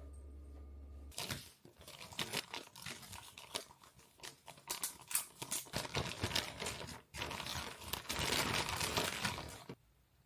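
Crinkling and rustling handling noise with many sharp crackles, as of plastic or paper being handled or torn. It starts abruptly about a second in, is loudest near the end, and stops shortly before the end.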